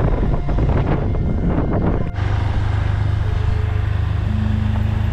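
Motorbike riding with wind buffeting the microphone over engine and road noise. About two seconds in, this changes abruptly to a steadier low engine hum.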